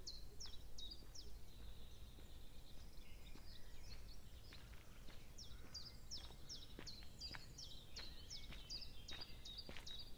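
A small songbird singing runs of short, high, down-slurred notes, about three a second, breaking off about a second and a half in and starting again about halfway through, over a faint low background rumble.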